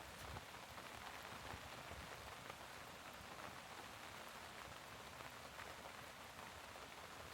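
Steady rain falling: a faint, even patter of many small drops.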